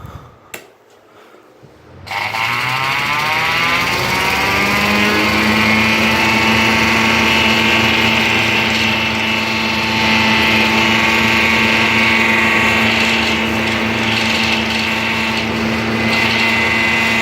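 Pen cap pressed against the metal piece of a spinning Galaxy box fan, giving a wail like an air-raid siren. It starts suddenly about two seconds in, climbs in pitch over the next few seconds, then holds a steady tone, and cuts off suddenly at the very end.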